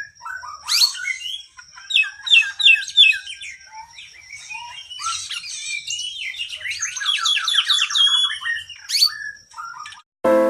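Oriental magpie-robin (kacer) singing a long, varied song of whistles and chirps, with a phrase of four falling notes about two seconds in and a fast trill later on; the song ends shortly before music begins at the very end.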